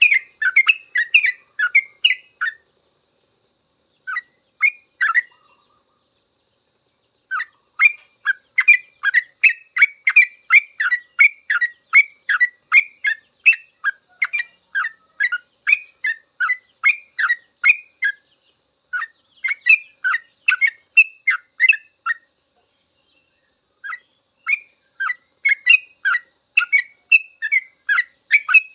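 Yellow-vented bulbul (trucuk) singing its rapid 'ropel' song: long runs of short, bright sweeping notes at about two to three a second. The runs are broken by brief pauses a few seconds in, at about a third of the way through, and again past the midpoint.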